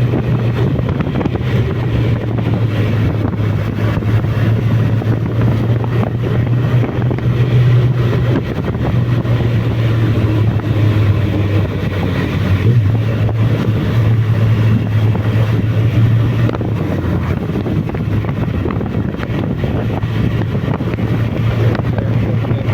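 Suzuki Bandit motorcycle's inline-four engine running at a steady low pitch, with wind rushing over the microphone.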